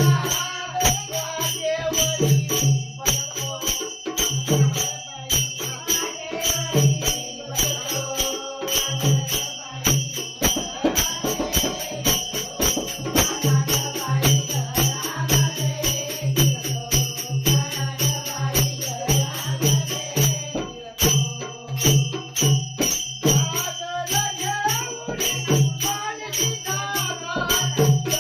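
Devotional folk music of a gaulan: jingling hand percussion and an evenly pulsing low drum beat under a wavering melody line.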